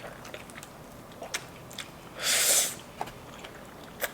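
Mouth eating Samyang fire noodles: one loud slurp of noodles about two seconds in, with small wet chewing clicks and smacks around it.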